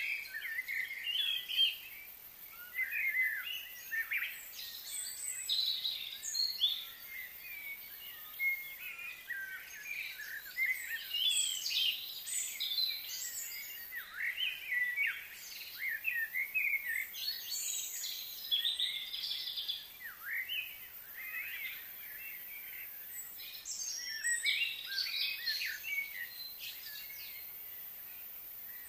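Several birds chirping and calling in overlapping clusters of short notes, with brief lulls between, over a faint steady outdoor background.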